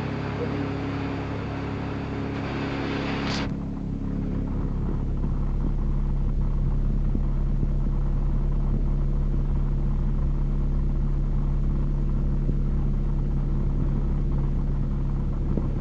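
Honda D16 four-cylinder engine idling steadily. About three seconds in, a hiss over it cuts off suddenly and the low engine hum comes through fuller.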